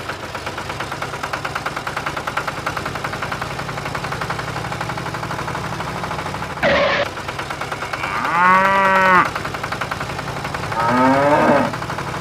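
Steady, rapidly pulsing engine sound throughout, with a short burst near the middle. About eight seconds in comes a loud drawn-out moo-like call lasting about a second, and a shorter one about three seconds later.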